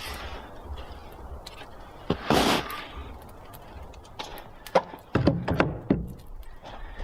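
A series of knocks and thuds from handling hard objects: a sharp knock and short clatter about two seconds in, then a cluster of louder knocks near the end.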